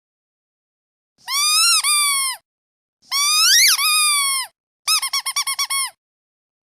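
Squeaky toy duck being squeezed. A long squeak breaks briefly in the middle, then a longer squeak glides up in pitch. A quick run of about eight short squeaks follows.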